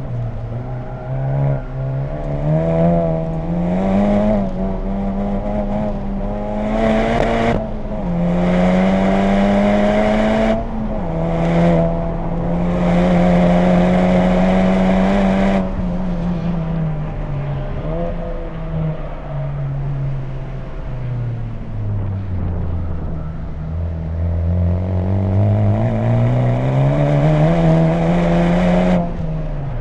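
2020 Honda Civic Type R's turbocharged 2.0-litre four-cylinder with an HKS Legamax exhaust, driven hard on track. Revs climb and drop sharply twice at upshifts in the first half and hold high for a few seconds. They then fall in steps under braking and downshifts, climb again, and drop once more at a shift near the end.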